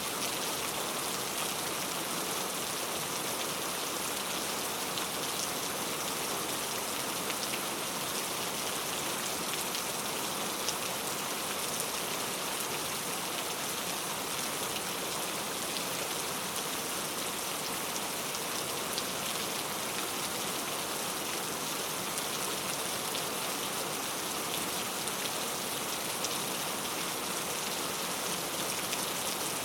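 Steady rain falling, a dense even hiss with many fine drop ticks and no change in intensity.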